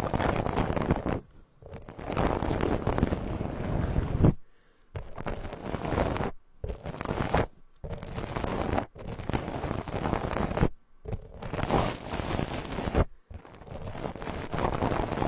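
Soft ASMR trigger tool brushed and swept over a binaural microphone in repeated rustling strokes, each a second or two long, with short pauses between them.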